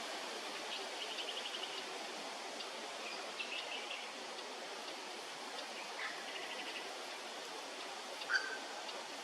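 Grey butcherbird calling: a few short, quick rattling phrases, then one louder clear piping note near the end, over a steady background hiss.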